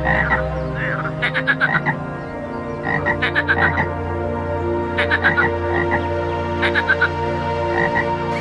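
Frogs croaking in short runs of rapid pulses, a call every one and a half to two seconds.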